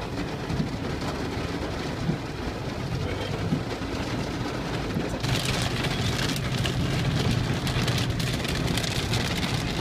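Rain falling on a moving car's roof and windshield over the low hum of the engine and road; the rain grows heavier about five seconds in.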